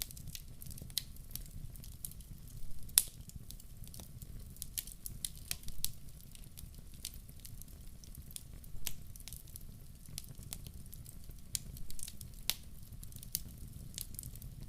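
Wood fire crackling in a fireplace: irregular sharp snaps and pops over a soft low rumble of flame, the loudest pop about three seconds in.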